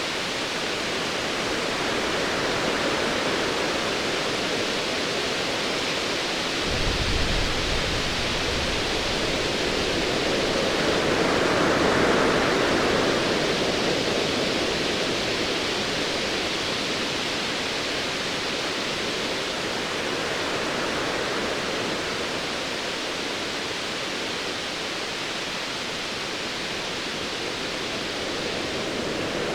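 Sea waves surging in a steady wash, one swell building and easing off about halfway through. A brief low rumble of distant thunder comes about seven seconds in.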